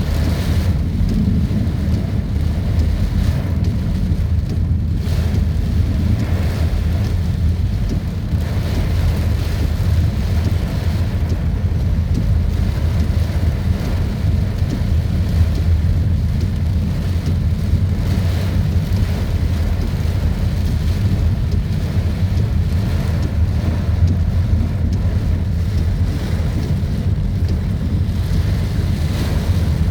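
Heavy rain in strong wind, a steady loud rushing with a deep rumble of gusts buffeting the microphone.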